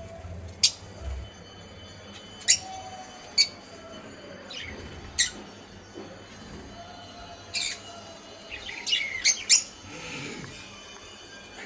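Small pet parrots giving short, sharp high calls at irregular intervals, with several in quick succession near the end.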